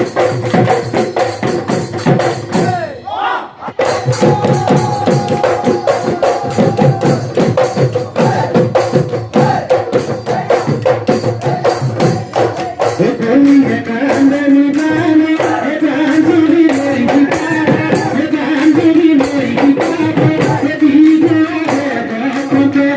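Bihu husori folk music: drums and cymbals beating a fast, even rhythm under a held melody line, with a short break about three seconds in. A strong, wavering melody line comes in about halfway.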